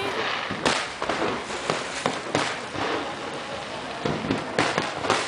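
Aerial fireworks shells bursting in a rapid, irregular series of bangs and pops, the sharpest about half a second in.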